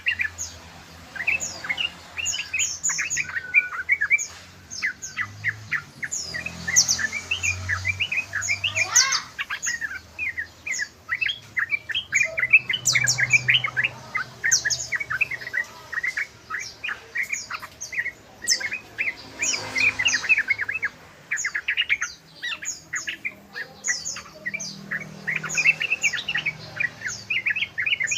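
Yellow-vented bulbul (trucukan) singing a rapid, unbroken run of short chirps, the fast 'ropel' style of song.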